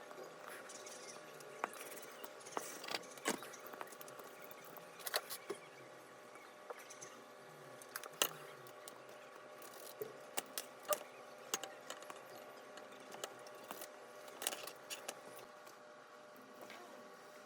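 Irregular small clicks and taps of hand tools and small parts being handled while an iPod touch is taken apart, over a faint steady hum.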